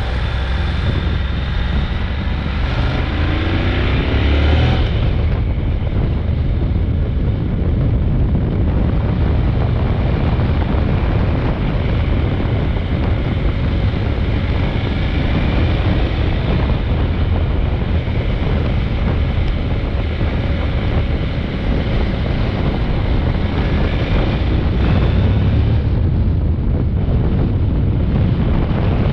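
Honda NC750X parallel-twin motorcycle engine accelerating, its note rising in the first few seconds, then riding at speed with heavy wind noise on the microphone over the engine.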